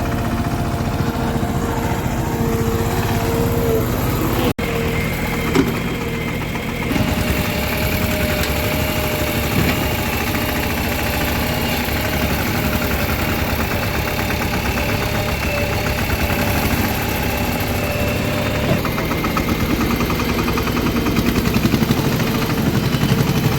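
Heavy diesel engines of a backhoe loader and tractor running steadily at low throttle, with a steady high whine over the engine note. The sound changes abruptly a few times.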